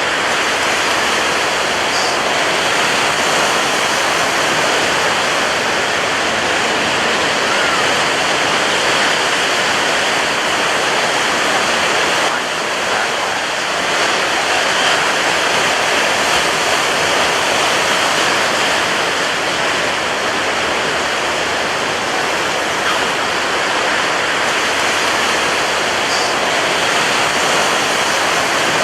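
Ocean surf breaking on a beach: a steady, dense rush of water with no separate crashes, dipping slightly once about twelve seconds in.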